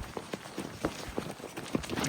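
Horse's hooves striking the ground in a quick run of short knocks, about five a second.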